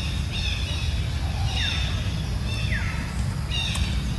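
Several short, high-pitched animal calls, about four in all, two of them sliding downward in pitch, over a steady low rumble.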